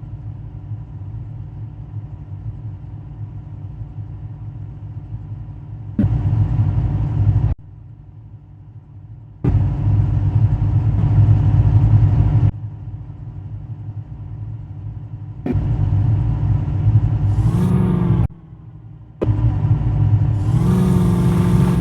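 Landi jeep engine running in a steady low hum, with louder stretches that cut in and out abruptly. It revs up twice near the end.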